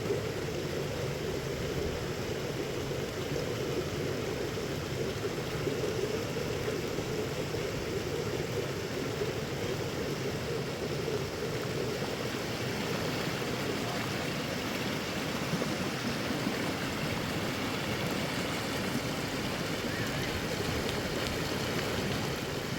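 Heavy rain falling steadily, an even rushing hiss with no pauses.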